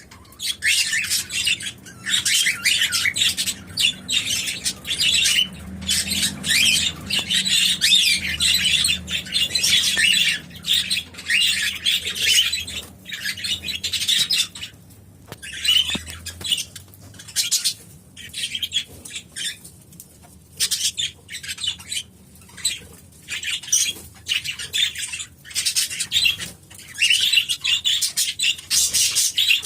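A flock of budgerigars and cockatiels chattering and chirping in dense bursts with short pauses, dropping off briefly about halfway through.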